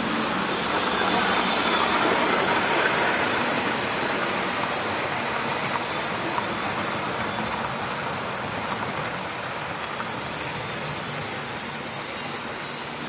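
OO gauge model train running along the track, its motor and wagon wheels making a steady rolling noise. It is loudest about two seconds in and slowly fades as the train moves away.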